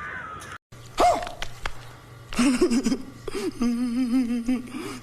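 A person's voice humming or singing a wavering, drawn-out tune, after a short sharp vocal sound about a second in.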